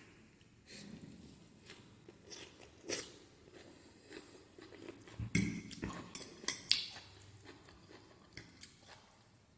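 Close-up eating sounds of a person slurping and chewing spicy Korean instant noodles, with wet smacks and clicks that are loudest about halfway through.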